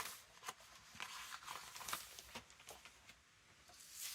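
Sheets of printed craft paper being handled and shuffled on a work table: a few faint, soft rustles and taps.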